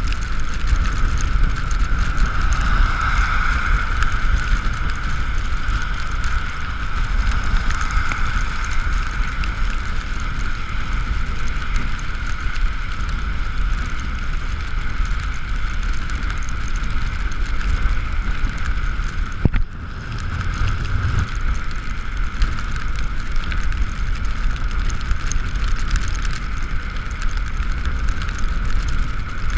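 Riding noise from an Ekoway ML5000 electric scooter: a steady high whine over heavy wind rumble on the microphone, with a brief drop in the sound about two-thirds of the way through.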